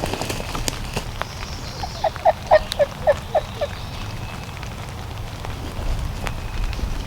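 Wild turkey yelps: a quick series of about seven short, downward-sliding notes, over a steady low rumble.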